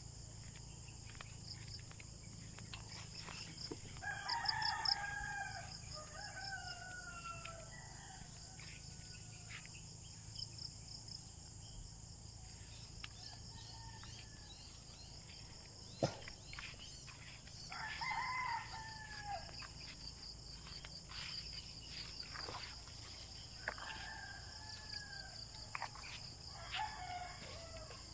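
Roosters crowing several times: the loudest crow comes about four seconds in, and fainter ones follow in the middle and near the end. Under them runs a steady high-pitched chorus of insects.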